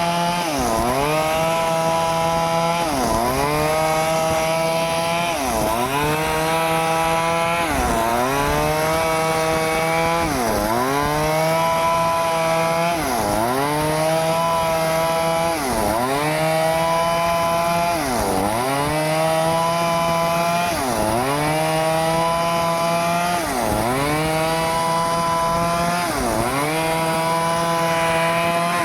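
Stihl chainsaw engine running hard, its pitch dipping sharply and recovering about every two and a half seconds, then holding steady between dips.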